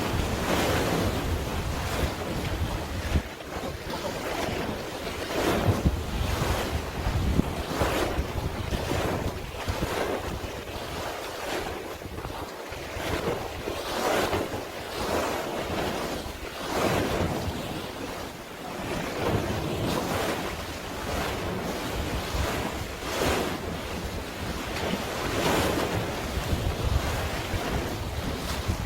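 Sea waves washing in, one surge every couple of seconds, with wind rumbling on the microphone, the rumble heavier in the first half.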